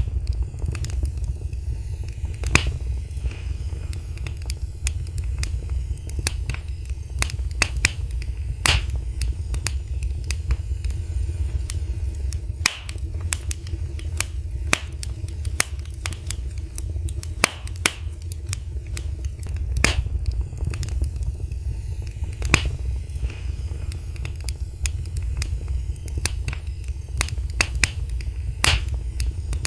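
Wood fire burning in a fireplace, crackling with irregular sharp pops and snaps, a few of them louder, over a steady low rumble.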